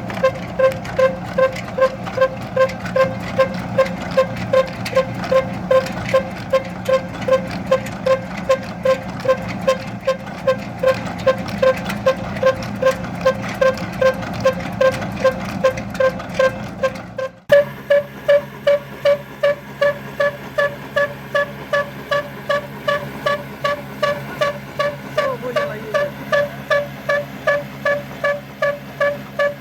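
Old stationary engine of the kind that drives a village flour mill, running steadily with an even exhaust beat of about two and a half beats a second. Each beat carries a ringing note.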